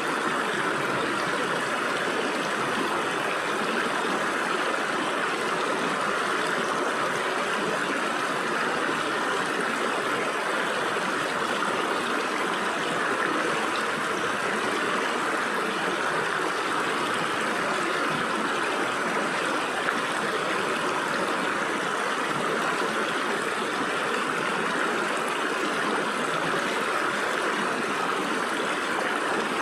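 Stream water flowing and splashing through gaps between rocks, a steady rushing hiss.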